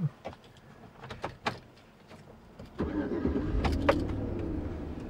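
A few light clicks, then about three seconds in the Chevrolet Suburban's engine starts and settles into a steady idle.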